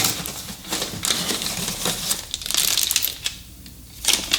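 Small metal hardware pieces clinking and rattling in plastic bags as they are handled, with the plastic crinkling. The clicking thins out in the last second or so, with a sharp click near the end.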